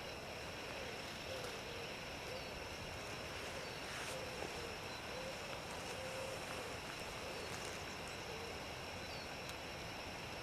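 Spring forest ambience: a steady background hiss and low rumble with a few faint, short bird chirps.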